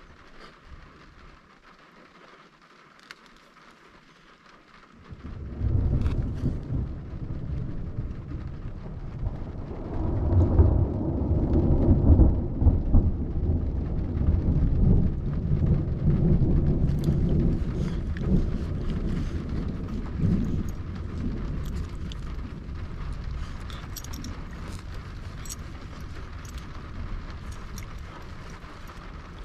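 Thunderstorm: rain falling, then about five seconds in a long roll of thunder starts suddenly, swells over several seconds and slowly rumbles away.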